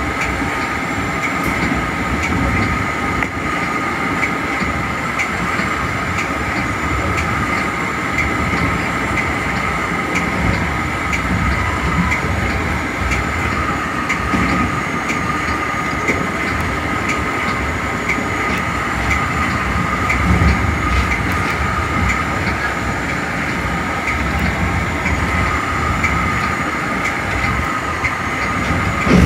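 Metra commuter train cab car running at speed: a steady rumble of wheels on rail with faint scattered clicks and a steady high whine, heard from inside the car.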